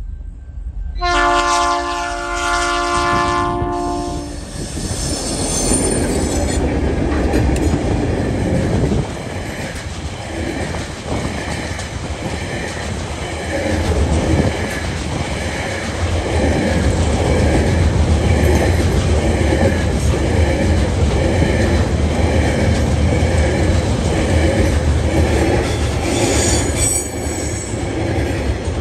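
TasRail diesel locomotives sound their horn, a chord of several notes held for about three seconds, then the locomotives and a long string of coal hopper wagons roll past with a low rumble and wheels clattering over the rails, with a brief high-pitched wheel squeal near the end.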